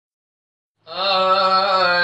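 A man's voice begins singing almost a second in, holding one long, slightly wavering note: the opening of an Arabic sung poem.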